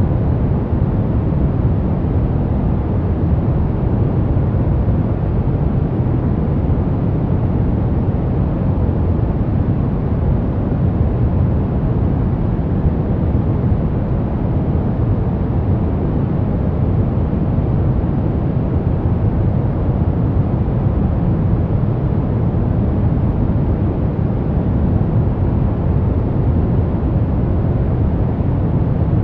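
Steady white noise for baby sleep, weighted to the low end so it sounds deep, like a low rumbling hiss, unchanging throughout.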